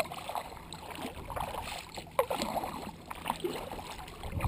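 Kayak paddle strokes dipping into the water: irregular splashes and drips, with a low rumble of wind underneath.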